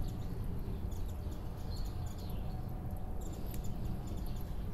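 Small birds chirping on and off, short high calls with a few falling notes, over a steady low background rumble.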